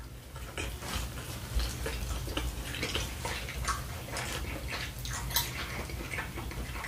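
Close-miked chewing and wet mouth sounds: irregular small clicks and smacks, with a fork now and then clinking on a plate.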